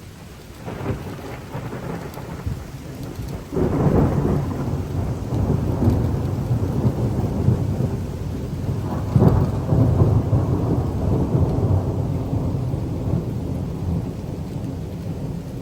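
Thunder from a close lightning strike: a faint rumble about a second in, then a sudden loud, deep rumble about three and a half seconds in that swells again around nine seconds and slowly dies away, over steady rain.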